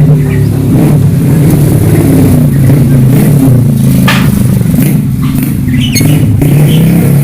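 An engine running steadily at a low, even pitch, with a few short bird chirps over it.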